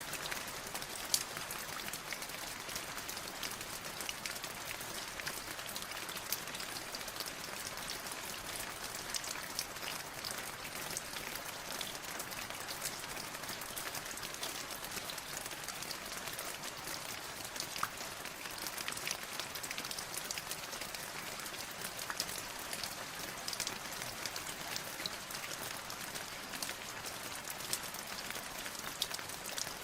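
Steady rainfall, a dense hiss with many individual drops ticking sharply on a hard surface.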